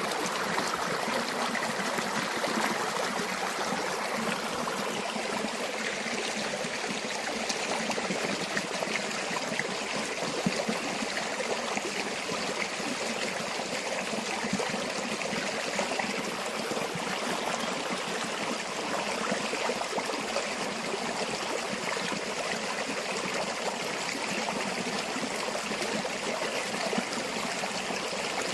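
A river or stream running steadily over stones, a continuous rushing and trickling of water.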